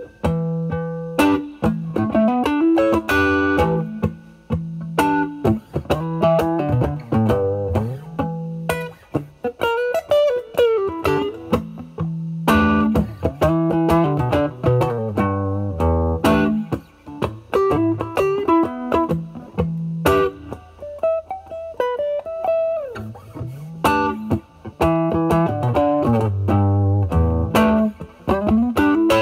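Electric guitar (a Stratocaster) played through a Vertex Steel String Clean Drive MK1 overdrive pedal, J201 FET-based, set at gain 9, into a Valvestate amplifier's drive channel. It is playing improvised blues-style licks: single-note lines with string bends, mixed with low chords and brief pauses.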